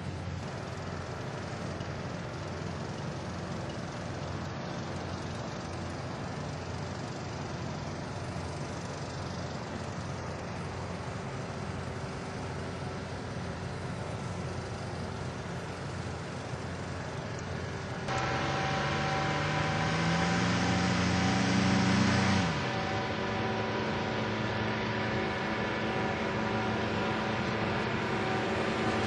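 Small aircraft engine: a steady, quieter drone. About eighteen seconds in, it comes in suddenly louder, its pitch climbs for some four seconds, then drops back sharply and runs steady.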